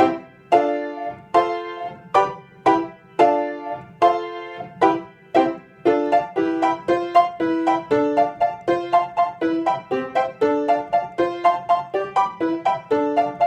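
Piano playing the Primo (upper) part of a piano duet: evenly repeated chords for the first few seconds, then a quicker run of notes from about six seconds in.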